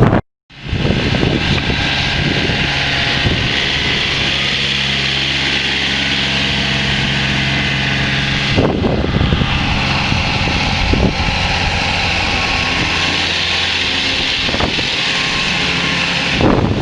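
Snowplow vehicle's engine running steadily under a loud, even hiss, after a brief dropout at the very start.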